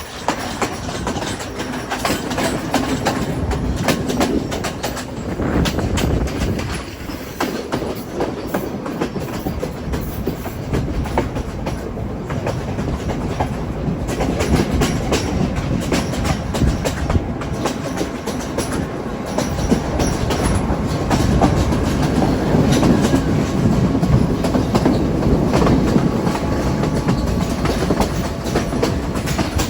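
Train running on the rails: a steady rumble with the wheels clicking over rail joints, a little louder in the second half.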